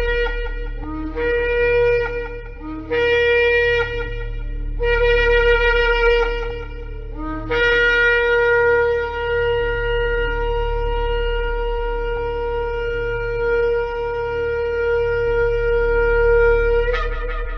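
Shofar (ram's horn) blown in four short blasts followed by one long blast of about nine seconds. Each blast starts on a low note and jumps up to a higher one, and the long blast ends with a brief upward break.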